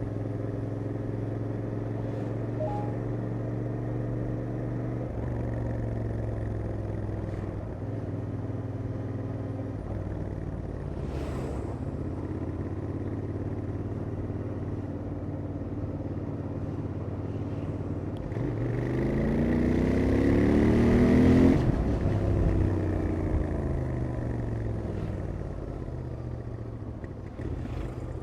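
Royal Enfield Interceptor 650's 648 cc parallel-twin engine running through its stock exhaust at a steady cruise, then revving up hard under acceleration for about three seconds about two-thirds of the way in, and dropping back as the throttle is closed.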